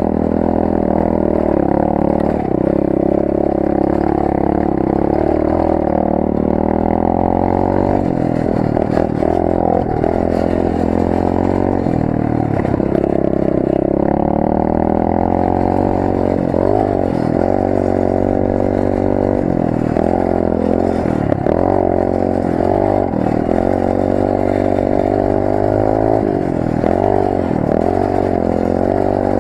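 Rampage 125 cc pit bike's single-cylinder engine heard from a camera mounted on the bike, revving up and down with the throttle. From about eight seconds in the revs rise and fall in quick, repeated swoops as the rider works the throttle and gears.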